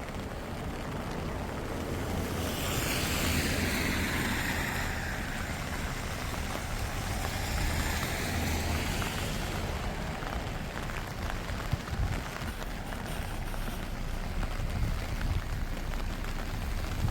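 A vehicle passing on a wet road, its tyre hiss swelling about two seconds in and fading away by about ten seconds. Steady rain patters throughout, with small scattered drips or steps afterwards.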